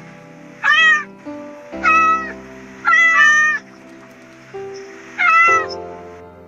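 Domestic cat meowing: five short meows about a second apart, two of them overlapping near the middle, over background music.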